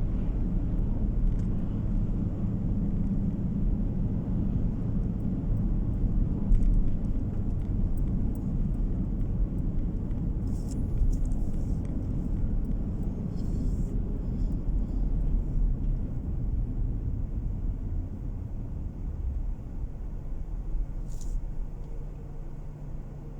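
Steady low road and engine rumble of a car driving along, as heard inside the cabin, easing off a little near the end.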